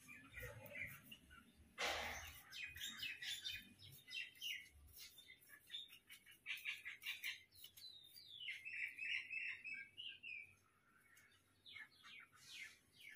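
Birds chirping, a quick run of short calls, with a brief louder noise about two seconds in.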